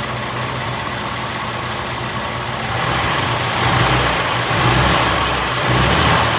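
1926 Oakland's old six-cylinder engine idling steadily on its newly finished fuel and exhaust systems, with a little valve-train noise that is normal for it. It gets louder from about halfway.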